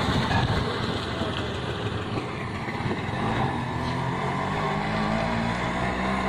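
An engine running steadily over a rushing noise. Its low hum settles into a steady pitch about three seconds in.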